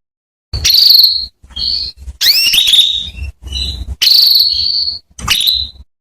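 Female domestic canary calling: a run of short, separate phrases of rising whistled notes and fast buzzy trills, with brief pauses between them. These are the female's calls meant to lure male canaries into song.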